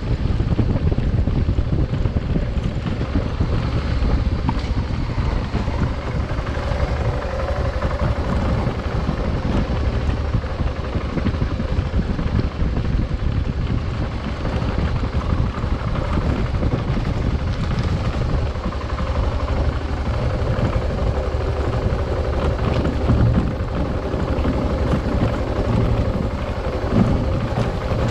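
Adventure motorcycle engine running steadily while riding, with wind buffeting the microphone.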